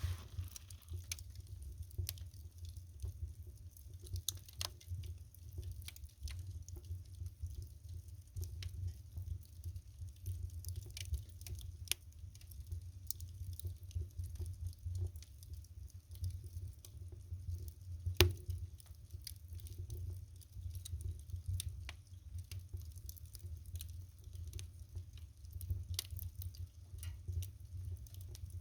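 Wood fire crackling: irregular snaps and small pops of burning firewood over a low steady rumble, with one sharp loud pop about eighteen seconds in.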